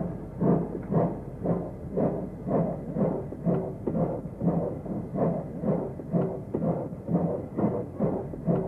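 Steam locomotive exhaust chuffing in a steady rhythm of about two beats a second.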